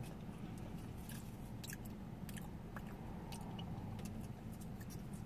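Close-up chewing of a mouthful of corn dog, with many small wet mouth clicks scattered throughout, over a faint low steady hum.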